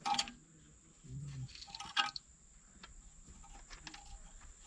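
Faint handling noise while working on an engine: a few clicks and knocks, the sharpest about two seconds in.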